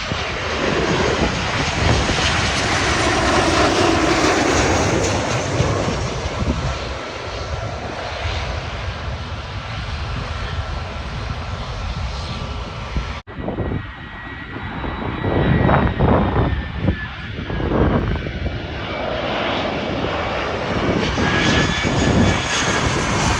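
Jet airliner passing low overhead: a loud, steady rush of engine noise with a faint high whine. It cuts off abruptly about thirteen seconds in, and another stretch of loud jet noise follows, rising and falling in uneven surges.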